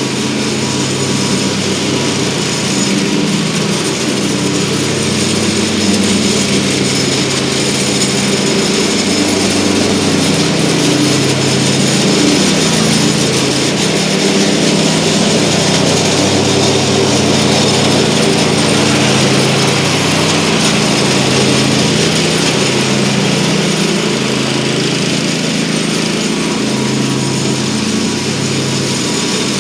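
Repaired lawn mower's small engine running steadily, its pitch shifting a little up and down.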